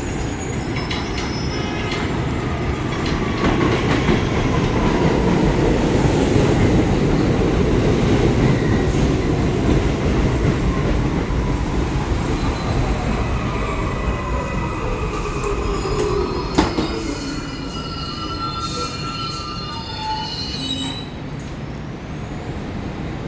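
New York City Subway 1 train slowing: a steady rumble of the cars on the rails, with a motor whine gliding down in pitch as it slows and high wheel or brake squeals in the last third. A single sharp bang about two-thirds of the way through.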